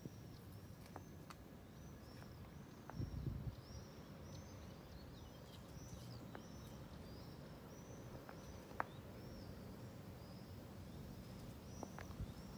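A small bird outdoors repeats a short, high, arched chirp about twice a second over quiet open-air background. A brief low rumble comes about three seconds in.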